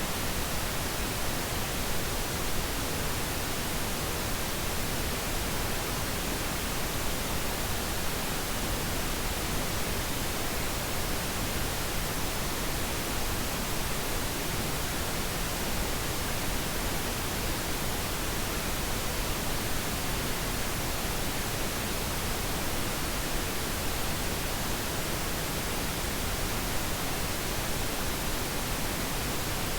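Generated pink noise: a steady, even hiss spread across all pitches, with no change or event in it.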